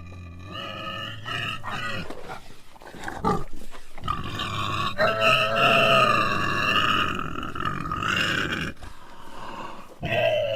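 Pig squealing: several short squeals, then one long squeal held for about five seconds, and another squeal starting near the end.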